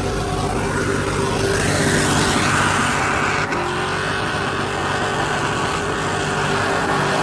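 A truck engine running loud and revving, its pitch rising about one and a half seconds in and then holding high.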